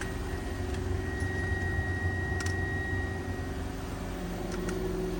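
Subaru Vivio's small 658 cc four-cylinder engine idling steadily just after a cold start. A thin high whine fades out about three seconds in, and there are a couple of faint clicks.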